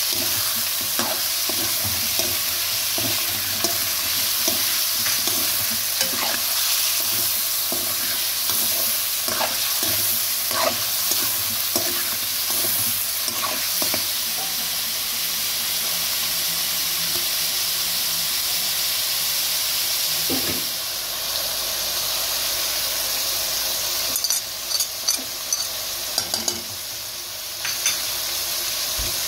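Chicken pieces sizzling in hot oil in a steel wok, stirred with a metal slotted spoon that scrapes and clinks against the pan. The sizzle dips a little about two-thirds through, and a run of short sharp clicks comes near the end.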